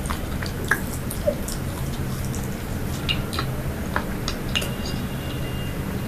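Close-miked chewing of soft sweet food, with scattered wet mouth clicks and smacks over a steady low hum.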